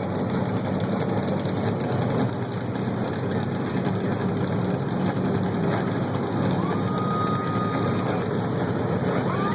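NASCAR Sprint Cup V8 race engines idling together during pre-race warm-up, a steady running sound. A brief thin high tone sounds about seven seconds in.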